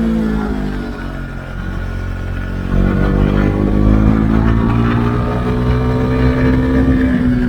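Husqvarna Svartpilen 401's single-cylinder engine through an Akrapovic exhaust with its dB-killer removed: the note falls off for the first second or so as the throttle is closed, then about three seconds in the throttle opens, the sound gets louder and the pitch climbs steadily as the bike accelerates, easing slightly near the end.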